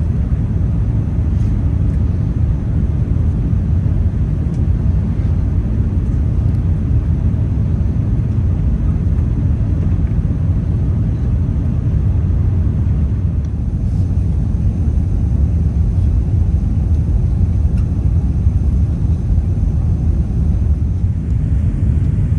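Airbus A380 cabin noise heard from a passenger seat: a steady low rumble of engines and airflow.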